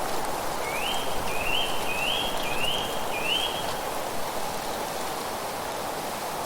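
A bird calls five times in quick succession, each a short rising note, over a steady noisy wash of wind or rain in the background.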